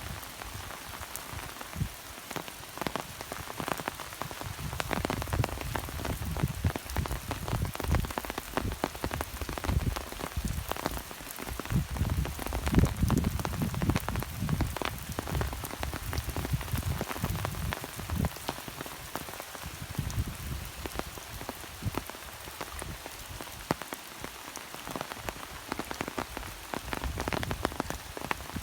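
Rain falling steadily, with a dense run of close, sharp drop hits on a surface near the microphone and uneven low rumbling underneath.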